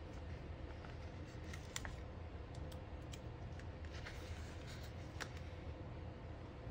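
Faint scattered clicks and light taps of small stickers being peeled from a sheet and pressed onto a paper planner page, over a low steady hum.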